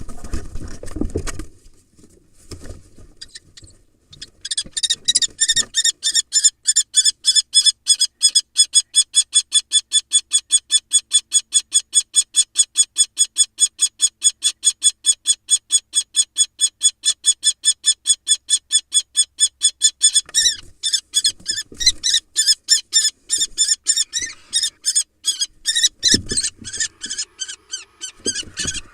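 Female common kestrel giving a rapid, shrill 'kee-kee-kee' alarm call, about five notes a second, kept up for many seconds and becoming ragged in the second half as she defends her nest against a barn owl. A few dull thumps from the birds scuffling in the nest box come near the end.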